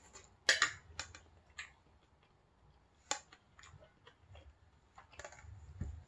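Close-up eating sounds: scattered wet mouth clicks and smacks while chewing a bite of egg and rice, with a few light clicks of a fork and knife on a china plate. The loudest click cluster comes about half a second in.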